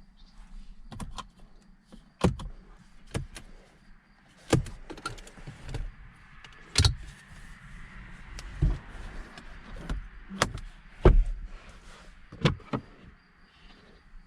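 About nine sharp clicks and knocks at irregular intervals, the sounds of the DS 9's interior controls and fittings being handled, with a faint steady hiss in the middle stretch.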